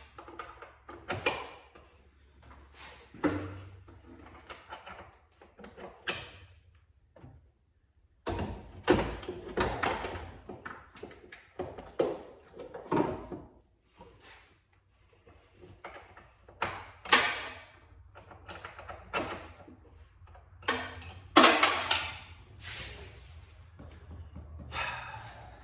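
Hand tools and car parts being handled and worked at close range: irregular knocks, clatters and scrapes, with the loudest clusters of clatter in the middle and toward the end.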